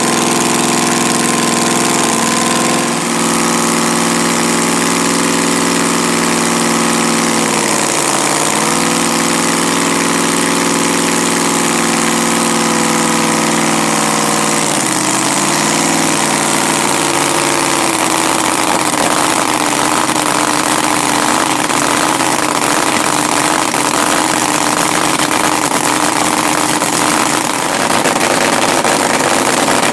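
Race car engine idling, its pitch sagging and recovering twice, then running rougher and noisier from about eighteen seconds in and growing louder near the end.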